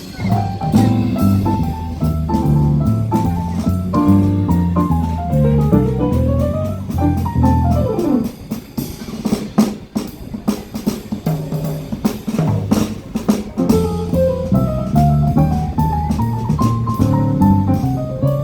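Small jazz band playing: drum kit with a bass line under a melody that runs up and down in quick passages.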